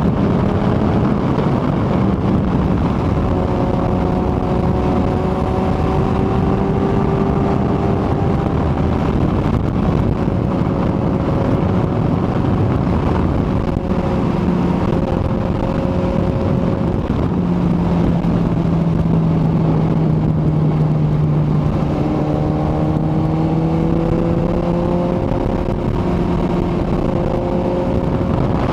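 Kawasaki ZX-14R sport bike's inline-four engine running at a steady cruise, its pitch drifting slowly up and down, under a constant rush of wind noise.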